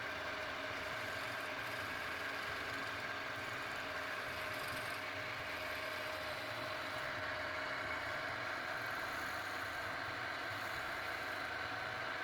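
A motor-driven machine running steadily, with a constant whine and no change in speed.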